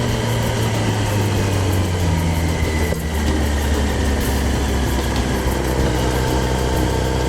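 Kawasaki Z1000 inline-four motorcycle engine off the throttle, its low note falling slowly in pitch, with a brief dip about three seconds in, then running steadily at low revs.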